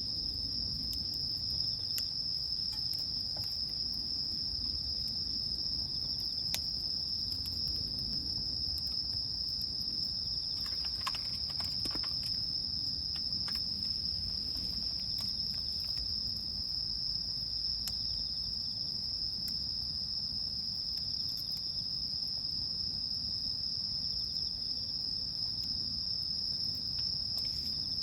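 Night insects, crickets, chirring in one steady, unbroken high-pitched chorus, with a few faint sharp crackles from the campfire scattered through it.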